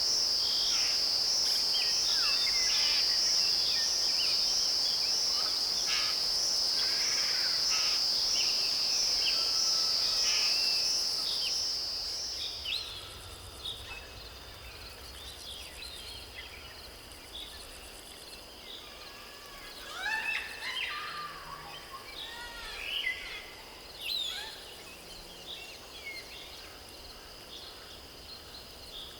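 Rainforest insect chorus: a loud, pulsing, high-pitched insect drone that stops about twelve seconds in, leaving fainter steady insect tones. Bird calls run throughout, with a burst of downward-sliding whistled calls about twenty seconds in.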